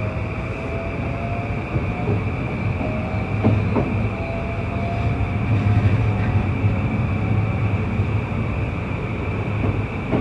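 Cabin sound aboard an E235-1000 series electric multiple unit accelerating. The traction motors' whine rises slowly in pitch over a steady running rumble, with a couple of knocks from the wheels passing rail joints about a third of the way in.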